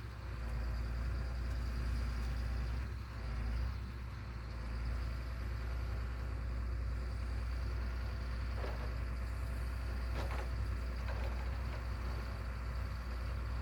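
A steady, low engine rumble, with a few brief faint scraping sounds near the middle and later part.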